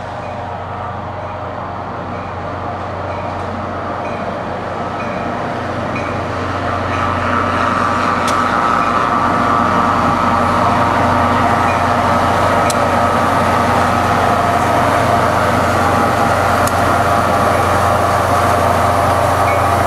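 Commuter train locomotive drawing near and running with a steady drone and low hum, growing louder over the first several seconds and then holding steady, with a sharp click every few seconds.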